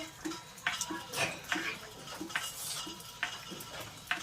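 Water splashing and dripping, with irregular light taps and clicks.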